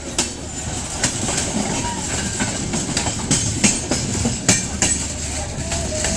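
Indian Railways train running: a steady rumble with irregular sharp clacks of the wheels over the rail joints, a few loud ones about three and a half and four and a half seconds in.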